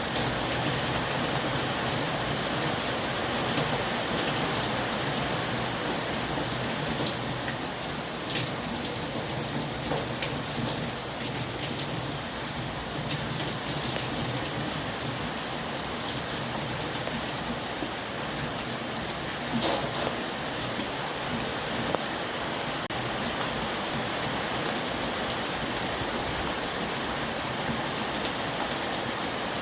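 Heavy rain falling steadily on surfaces, with scattered louder drop impacts.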